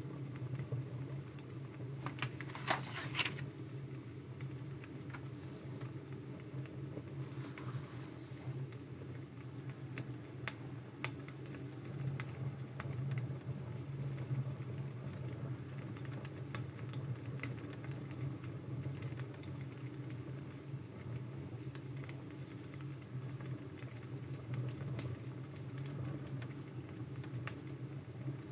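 Crackling wood fire: a steady low rumble with irregular sharp pops and snaps.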